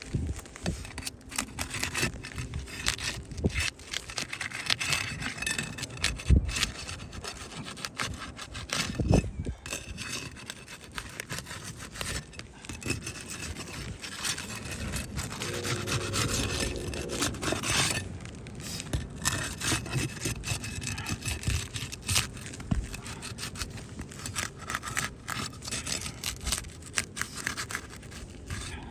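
Scraping, rubbing and prying as a damaged roof shingle is worked loose for removal, with irregular clicks and knocks and a brief squeak partway through.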